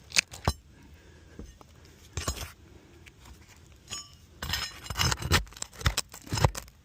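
A metal tool prying at roofing nails under asphalt shingles: scattered metallic clinks and scrapes, a couple near the start, one about two seconds in, and a busier run in the last two and a half seconds. The nails are pulling through the shingle rather than lifting out.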